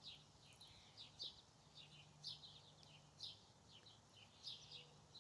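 Faint high bird chirps repeating in a quick, even series, about two to three a second.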